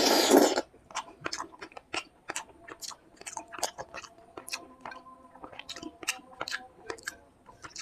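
Close-miked chewing of a meal of fish curry, fried fish and rice: one loud, noisy bite in the first half second, then a long run of short wet mouth clicks and smacks at irregular spacing.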